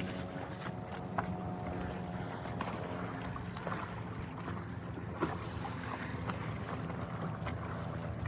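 Freedom 28 sailboat under sail in moderate wind: a steady wash of wind and water noise with a faint low hum underneath, and a couple of light knocks, about a second in and about five seconds in.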